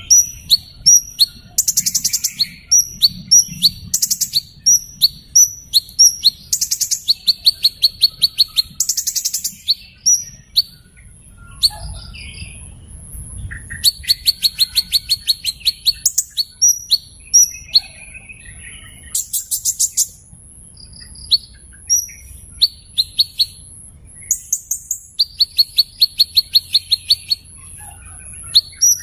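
A small bird calling: sharp high chirps repeated about twice a second, broken up by fast rattling trills about a second long. A thin steady very high whine runs beneath from about a third of the way in.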